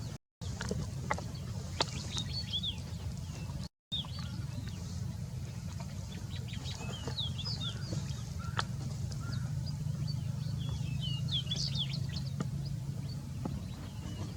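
Small birds chirping in short, quick calls in several bunches, over a steady low rumble, with the sound cutting out briefly twice.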